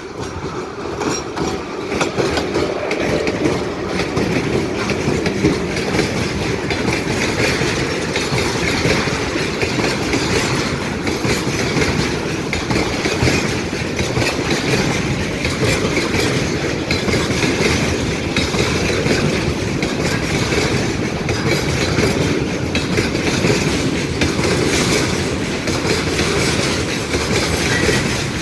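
A train passing close by: its wheels clatter steadily over the rail joints after the noise swells up sharply at the start.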